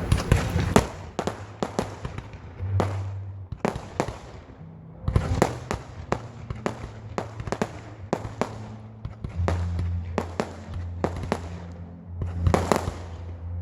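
Fireworks going off: a rapid, irregular string of sharp bangs and cracks, bunched more thickly at the start and again near the end.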